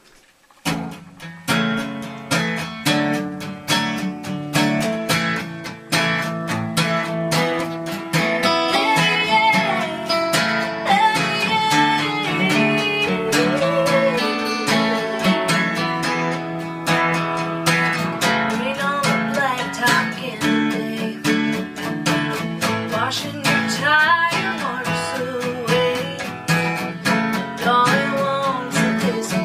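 Acoustic guitars playing a country song, starting about a second in: strummed chords with a picked lead melody over them.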